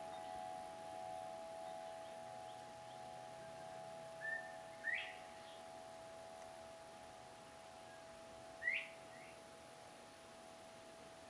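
Short, rising bird whistles: a brief flat note about four seconds in, then a pair of upslurred notes just after, and another pair near nine seconds. A steady faint hum runs underneath.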